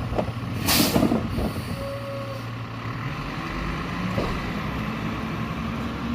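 Mack rear-loader garbage truck's diesel engine running, with a short sharp air-brake hiss about a second in; the engine note rises a little about halfway through.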